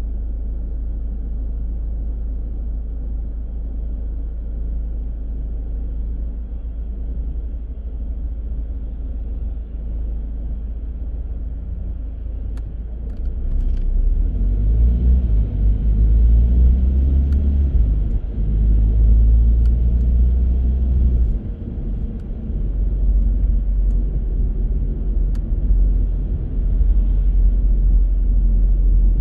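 Car driving on city streets: a steady low engine and road rumble that grows louder about halfway through as the car picks up speed, then dips briefly once before carrying on.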